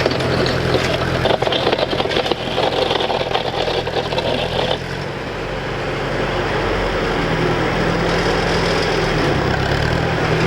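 John Deere crawler dozer's engine running steadily, started at last after its starter motor was rebuilt. Its sound changes slightly and drops a little about five seconds in.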